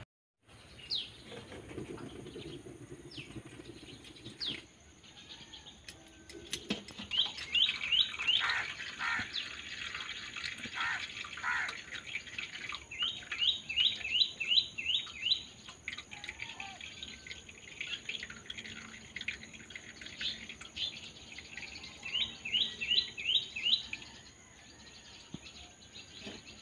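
A bird chirping: first a few single high chirps, then three quick runs of five or six short, falling chirps.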